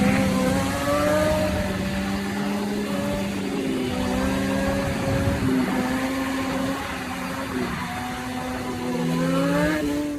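Motorcycle engine running under way, its pitch shifting with the throttle and rising as it revs up near the end.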